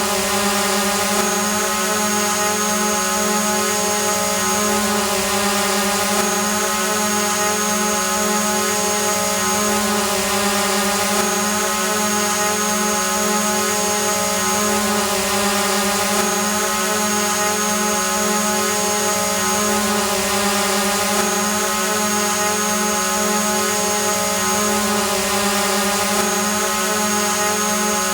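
Drone hovering: a steady propeller whine and buzz that holds one pitch. A faint high whistle sits over it and drops out briefly about every five seconds.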